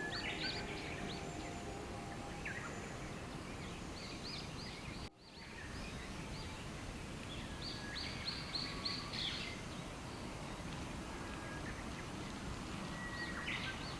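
Small birds singing outdoors: short series of quick, arching chirp notes repeated in bursts, over a steady background hiss of ambient noise. The sound drops out briefly about five seconds in.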